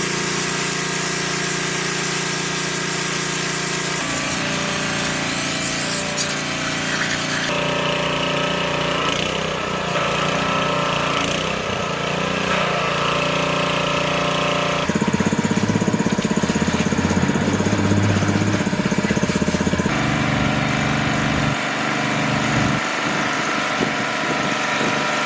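Workshop machinery noise, power tools and a running engine, in short cut-together segments that change abruptly every few seconds.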